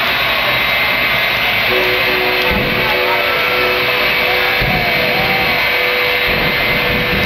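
Jet engines of a dual-engine jet truck running steadily: a loud, even rushing hiss with a high, steady whine.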